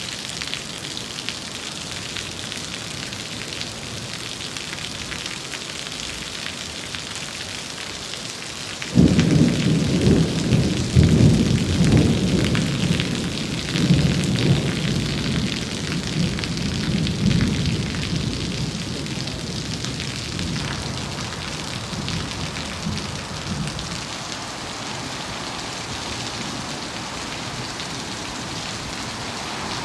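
Steady heavy rain hissing, with a thunderclap breaking in about nine seconds in and rolling on in several rumbling surges for about fifteen seconds before fading back under the rain.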